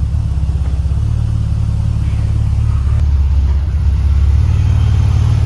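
BMW E39's engine running steadily with a low rumble that grows a little louder about three seconds in.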